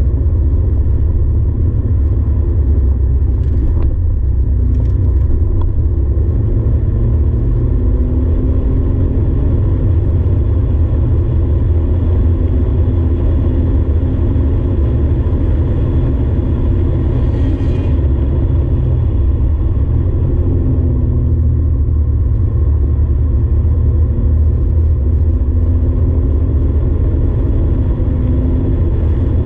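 Porsche 964's air-cooled flat-six running hard on track, heard from inside the cabin as a heavy low rumble, its pitch rising and falling with the revs.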